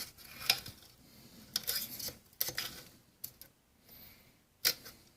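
Small metallic clicks and light scrapes of a steel pick being worked into an AK-type rifle's trigger group against the hammer spring. They come as a handful of separate clicks, with the sharpest near the end.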